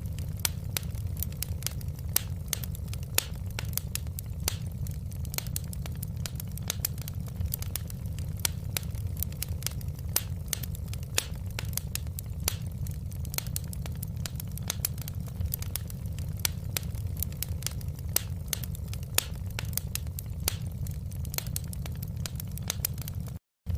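Wood fire crackling in a fireplace: a dense, irregular stream of sharp pops and snaps over a steady low rumble of the flames. The sound cuts out completely for a split second near the end.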